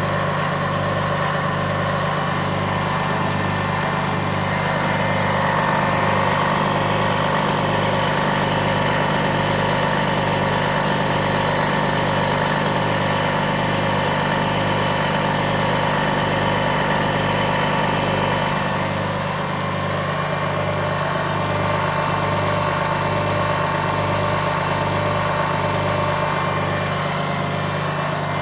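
The Liberty high-voltage impulse engine running on its own, a steady mechanical hum whose low tone pulses in an even rhythm somewhat slower than twice a second.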